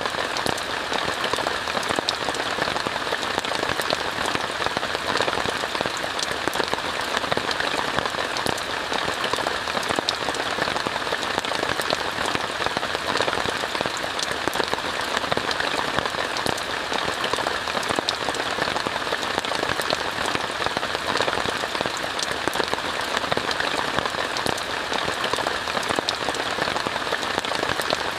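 Steady rain on a tent, heard from inside: an even, dense hiss dotted with many small drop ticks.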